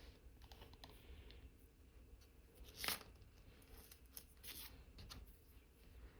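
Faint clicks and scrapes of watchmaker's tools handling parts of an Omega Cal.1109 watch movement, with one sharper click about three seconds in.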